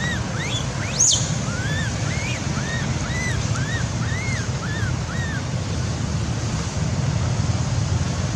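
A series of short, high, arching calls, about two a second, which stop about five seconds in, with one sharp rising whistle about a second in. Under them runs a steady low rumbling noise like wind or surf.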